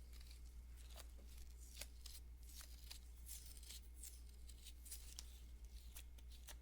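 Faint, crisp, irregular clicks and rustles of nitrile-gloved hands working lotion, over a steady low hum.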